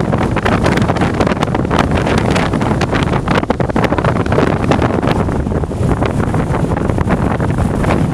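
Strong wind buffeting the microphone: loud, gusty low rumble with rapid flutter.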